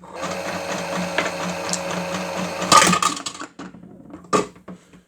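Miele W1 toy washing machine's small electric motor whirring steadily as the drum spins. About three seconds in there is a loud clatter of objects in the drum, then the whirr stops and a few scattered clicks and knocks follow.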